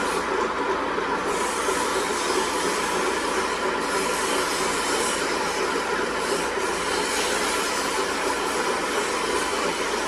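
A workshop machine running steadily, a continuous even mechanical noise with no strikes or pauses.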